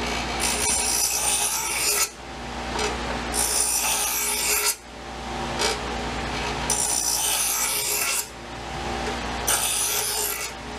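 Knife blade being ground on a running power grinder to take nicks out of the edge and even it: four grinding passes of about a second and a half each, with the machine's steady hum between them.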